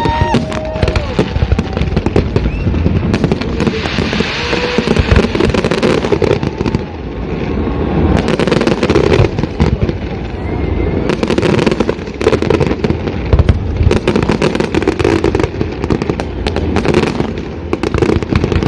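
Fireworks display going off: a dense, irregular barrage of bangs and crackling pops over a constant rumble of explosions.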